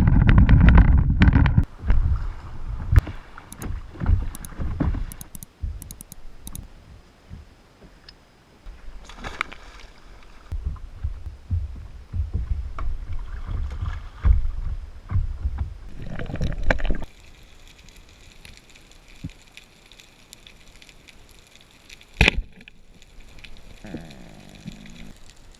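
Kayak paddling and water sounds: irregular splashing and knocking, loudest in the first few seconds and quieter in the second half, with a single sharp knock about 22 seconds in.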